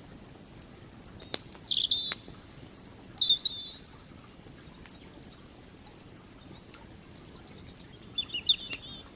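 A bird chirping in three short warbling phrases, with a few sharp pops from a crackling wood campfire and the steady low rush of creek water beneath.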